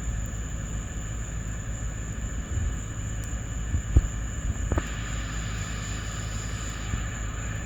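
Steady low rumble under a continuous high, thin insect trill like crickets, with one sharp thump about four seconds in.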